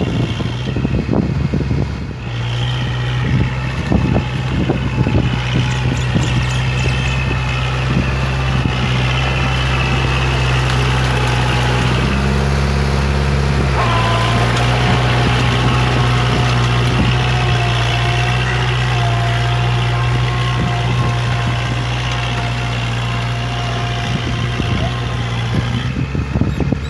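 Kubota MU4501 tractor's 45 hp diesel engine running steadily while puddling a muddy field. A few knocks come in the first few seconds, and the engine note drops for a couple of seconds about halfway, then picks back up.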